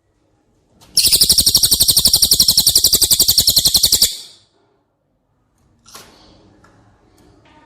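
A bird singing one very rapid, high-pitched trill of about three seconds, starting about a second in, at roughly fourteen notes a second. Faint clicks follow near the end.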